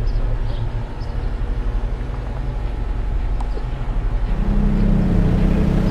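A motor vehicle's engine running with a steady low hum. About four seconds in, a louder, steady deeper tone joins it.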